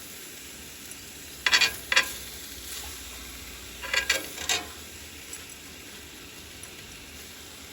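Steak and onions sizzling steadily in a cast iron skillet. A utensil scrapes against the pan in two short bouts, about a second and a half in and again about four seconds in.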